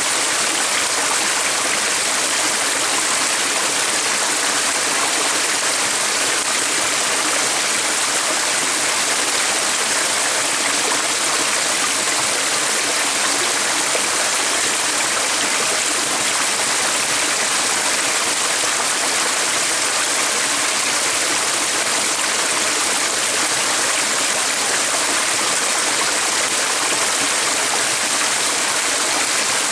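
Running water, a steady even rush with no change in level.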